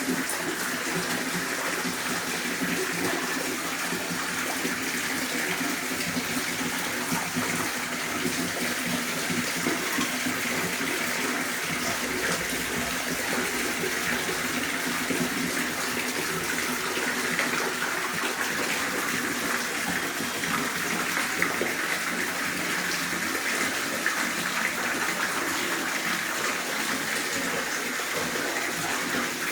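Garden water fountain, water splashing and falling steadily.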